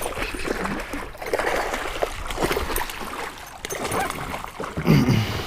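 Water splashing and dripping as a freshly caught largemouth bass thrashes and is handled at the side of a boat, with a short vocal sound near the end.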